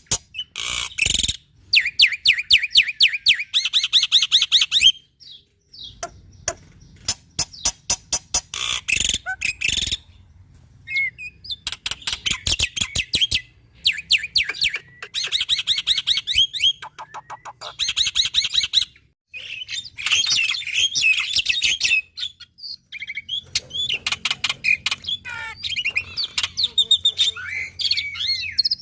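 Black-winged starling (jalak putih) singing vigorously: phrases of rapid clicking rattles, fast trills and whistled notes, broken by short pauses.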